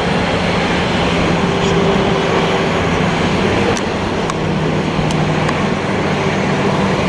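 Airbus A330 jet engines at takeoff power during the takeoff roll: a steady, loud roar with a low hum underneath.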